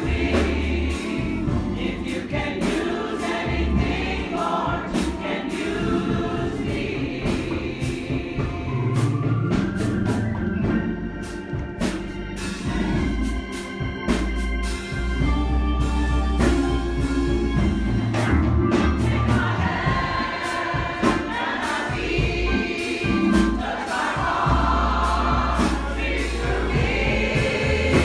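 Church congregation singing a gospel song together, over instrumental accompaniment with heavy bass and a steady beat.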